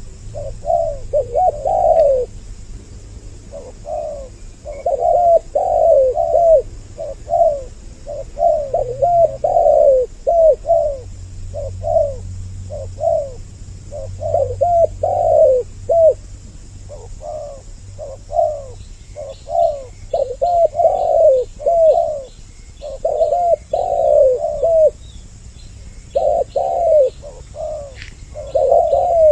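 Spotted doves (tekukur) cooing over and over in phrases of short, falling notes with brief pauses between them. The recording, a 'double voice' lure of male and female calling together, is used to attract wild doves. A faint, rapid high ticking joins in for several seconds past the middle.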